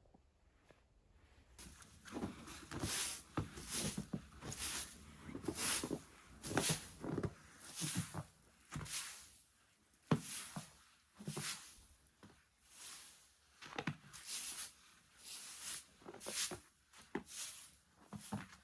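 Rhythmic crunching in snow, a stroke about once a second, beginning about a second and a half in.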